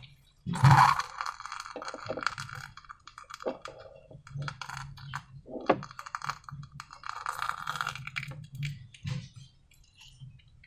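Slime being handled and worked: irregular sticky clicks and crackles, with a louder one about a second in.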